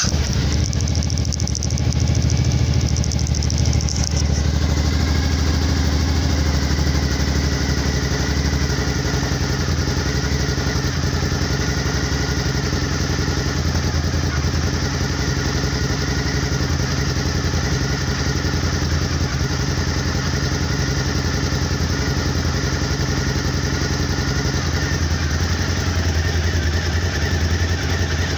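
Kawasaki KLV1000's 90-degree V-twin engine idling just after starting, settling within the first few seconds into a steady, even idle of about 1000 rpm. It is running on a newly replaced fuel pump, which cures the stumbling and stalling the bad pump caused.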